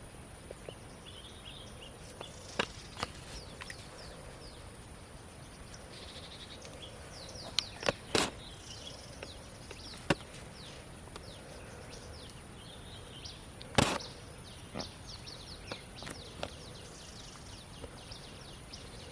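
Outdoor ambience: a steady hiss with a faint high whine, many short high chirps, and several sharp knocks or slaps, the loudest about 8 and 14 seconds in.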